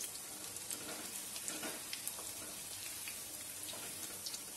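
Batter-coated chicken pakoras sizzling in hot oil in a kadai, a steady frying hiss with scattered small crackling pops, as the pieces are turned over with a spatula to fry the other side.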